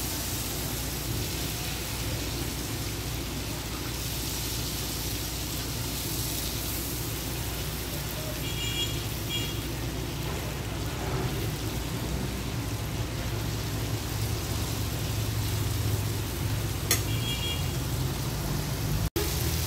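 Salmon fillets sizzling steadily in butter in a flat pan on a gas stove, over a steady low rumble. Short high chirps come in twice, about nine seconds in and again near the end, the second with a click.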